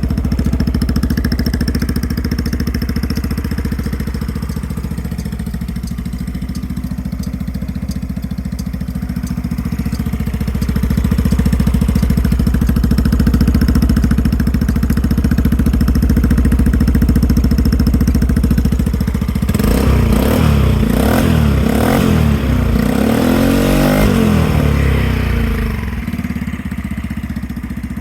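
Yamaha Majesty 125 FI scooter's single-cylinder four-stroke engine idling steadily, then revved in several quick throttle blips, each rising and falling in pitch, from about twenty seconds in, before settling back to idle.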